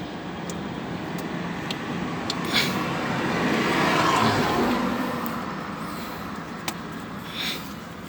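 A road vehicle passes by, its noise swelling to a peak about halfway through and then fading, over a steady low engine hum. A few short clicks sound over it.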